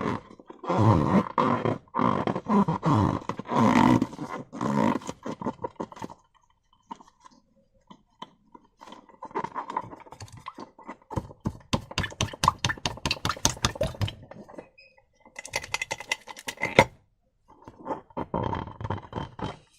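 Slime and rubber balloons being handled: wet squelching and rubbery stretching noises in irregular bursts for the first few seconds, then rapid crackly clicking passages after a short lull.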